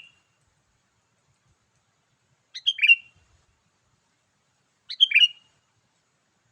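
Sooty-headed bulbul (kutilang) song: the same short, bright whistled phrase repeats twice, about two and a half seconds apart, with silence in between. This is a looped lure call for attracting wild bulbuls.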